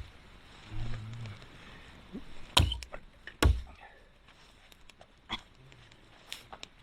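Two sharp knocks about a second apart, among lighter clicks and taps, with a short low hum about a second in.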